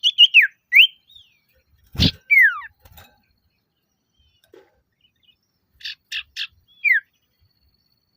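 Male common iora (sirtu) calling in three short phrases, near the start, about two seconds in and near the end. Each phrase is a few quick raspy notes and then a clear whistle sliding down in pitch. A sharp knock comes just before the second phrase.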